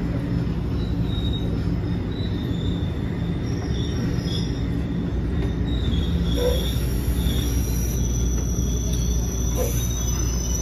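Moving train heard from inside an NJ Transit multilevel passenger coach rolling along a station platform: a steady low rumble of wheels on rail, with short high-pitched squeals from the wheels that come and go.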